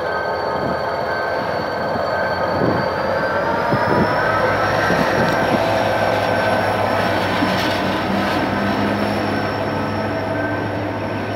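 GM GT22CW-2 diesel-electric locomotive pulling a passenger train past, followed by the coaches rolling by. Steady squealing tones from the wheels, a few sharp knocks over the rail joints about three seconds in, and the sound at its loudest a few seconds later.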